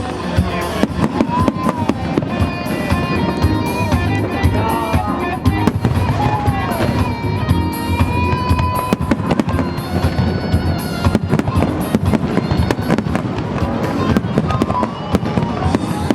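Fireworks bursting in rapid succession, a dense run of bangs and crackles, with music playing.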